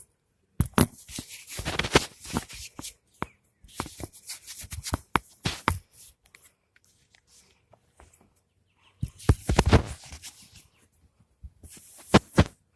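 Rustling, scraping handling noise in irregular bursts with sharp clicks, dropping out to silence between bursts and for several seconds in the middle.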